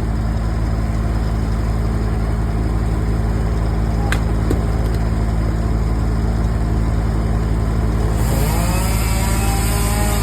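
An engine running steadily. About eight seconds in, a higher hiss comes in along with a rising whine.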